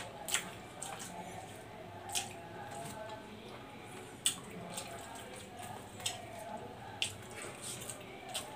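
Wet mouth sounds of chewing a mouthful of rice: scattered soft smacks and sharp clicks about every second or two.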